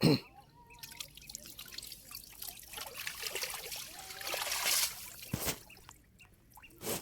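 Water splashing and trickling: a sudden loud splash at the start, then a dense run of splashes and dripping that builds for about five seconds, with two more short thuds near the end.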